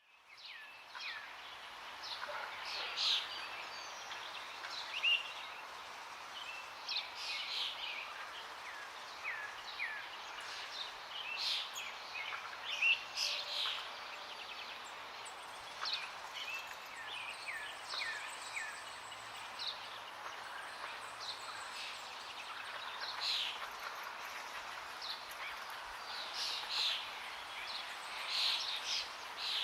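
Many songbirds chirping and trilling in short, overlapping calls over the steady hiss of running water.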